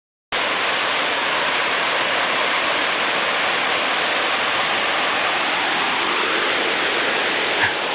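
Waterfall pouring into a pool, a steady, loud rush of water that cuts in suddenly at the very start.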